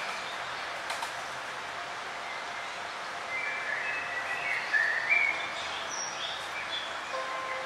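Several forest birds chirping and whistling over a steady hiss of background noise, with short phrases coming and going, the busiest stretch a little past the middle.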